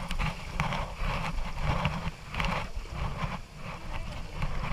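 River water rushing around a rafting boat, with irregular splashes from paddles dipping into the water.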